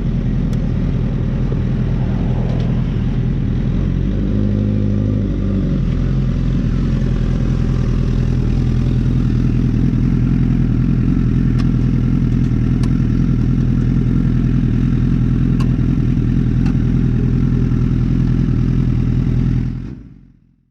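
Honda CB1000R's inline-four engine running steadily under way, its note shifting briefly about four to six seconds in, then fading out near the end.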